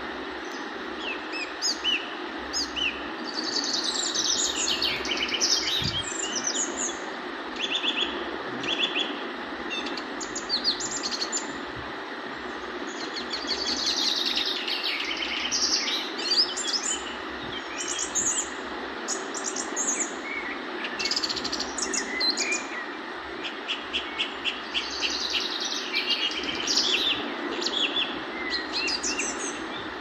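Birds chirping and twittering in quick clusters of short calls, over a steady hiss.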